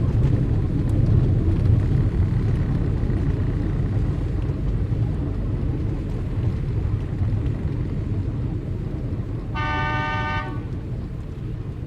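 Steady low rumble of street traffic, with one car horn sounding for about a second near the end.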